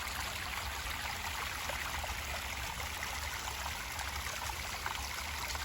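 A small creek's water running and trickling steadily, a constant babble with a faint low rumble underneath.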